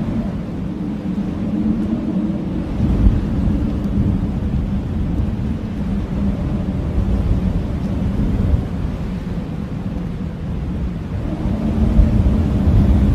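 Blizzard wind blowing hard: a deep, gusting rumble with a low howling tone that fades after the first couple of seconds and swells again near the end.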